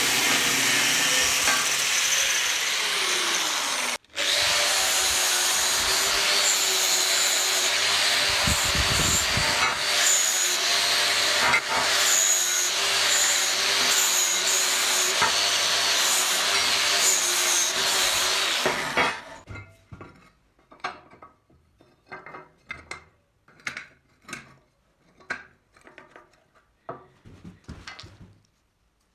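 A power tool, likely an angle grinder, working metal: it runs steadily with a continuous rasping noise, breaks off for an instant about four seconds in, and stops about two-thirds of the way through. After that come a series of separate short strokes, one or two a second.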